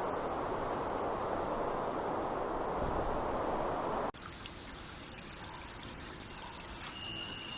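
Running water: a steady rushing noise that cuts off abruptly about four seconds in. A quieter trickling hiss with small ticks follows, and a brief thin high whistle comes near the end.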